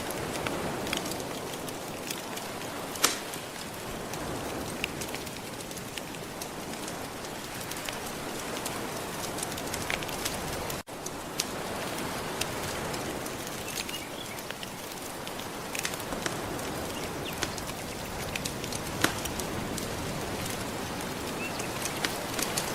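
Steady wash of gentle ocean waves with a wood fire crackling over it in scattered sharp pops. Two pops stand out loudest, about three seconds in and late on, and the sound cuts out for an instant near the middle.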